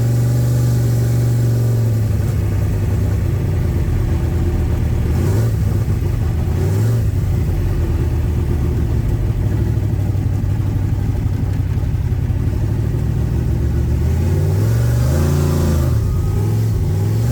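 Carbureted Camaro engine running as the car is driven, its note mostly steady, then revving up and dropping back about 15 seconds in and again briefly near the end.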